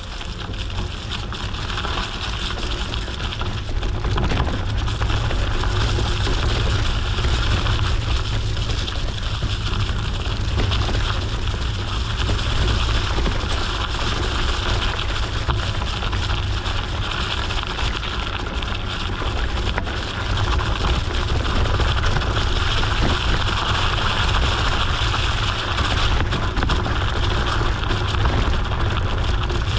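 Steady wind noise on the microphone of a riding mountain bike, with the rumble of tyres rolling over an unpaved gravel forest road.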